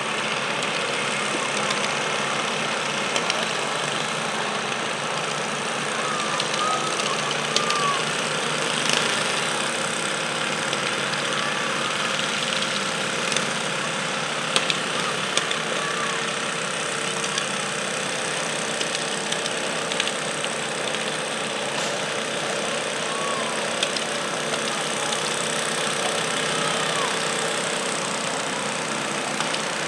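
Garden tractor engine running steadily at idle, with occasional faint clicks and knocks over it.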